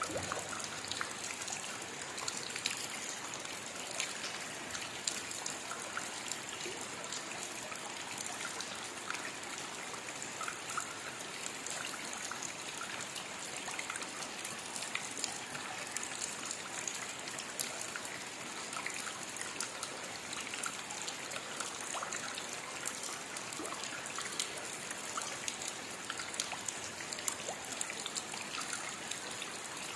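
Steady rainfall: an even wash of rain with many separate drop hits scattered through it, unchanging throughout.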